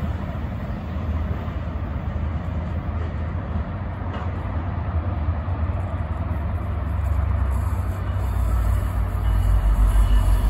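Freight train of tank cars rolling away into the distance, a steady rumble of wheels on rail. A deeper low rumble grows louder near the end.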